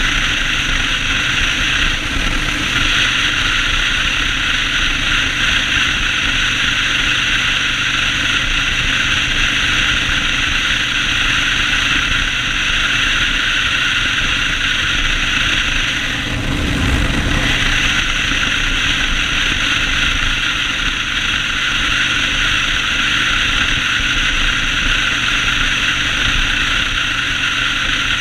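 Yamaha Road Star 1600 V-twin running under way, with a steady rush of wind and road noise over the engine's low drone. The sound briefly dips and shifts about sixteen seconds in.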